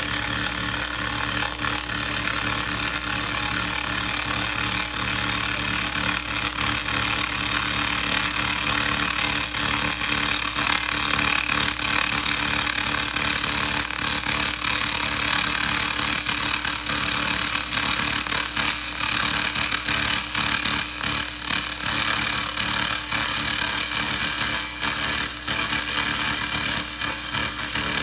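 A 2000-watt SFX handheld laser rust remover ablating rust from metal: a steady crackling hiss over a constant machine hum.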